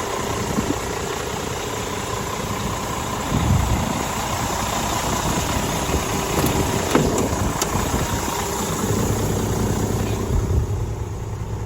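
Scania G450 truck's 13-litre six-cylinder diesel engine idling steadily, with brief louder swells about three and a half and seven seconds in.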